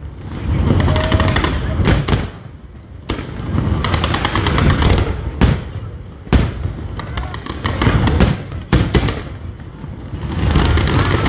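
Fireworks display: single loud bangs about every second, mixed with bursts of rapid crackling.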